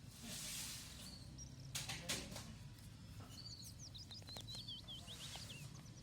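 A small bird chirping a quick run of short, high notes, most of them falling in pitch, a little past halfway through. Before it come a brief hiss and a few sharp clicks or knocks, the loudest sounds here.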